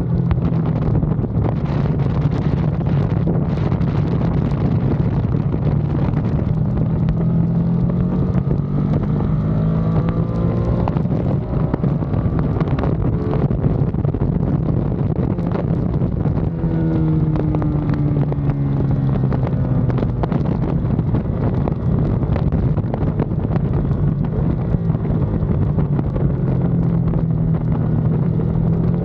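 Ducati Panigale V2's twin-cylinder engine under hard riding on track, its revs climbing and dropping again and again through gear changes and braking, with wind rushing over the microphone.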